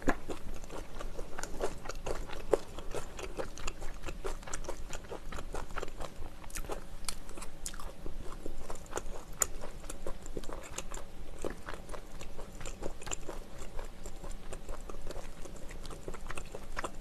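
Close-miked chewing of a cabbage-leaf wrap, with many small irregular crunches and clicks.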